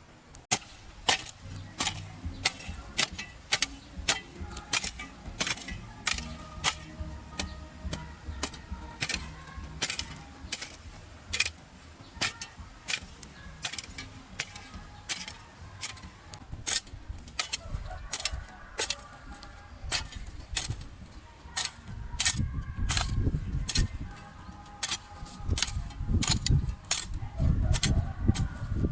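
Repeated sharp knocks, one or two a second, irregularly spaced, with a low rumble joining in over the last several seconds.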